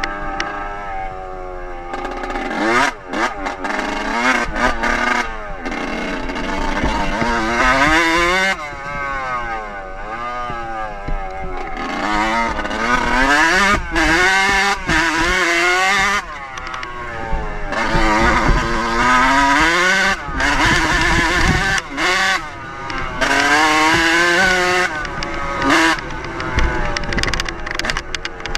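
Dirt bike engine being ridden hard, revving up and falling back over and over: the pitch climbs with each burst of throttle, then drops off sharply several times as the throttle is closed or the gear changes.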